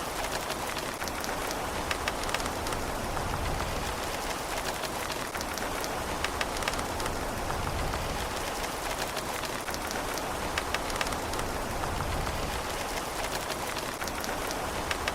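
Steady rain with a constant hiss and many close, sharp drops ticking on a hard surface, over a low rumble.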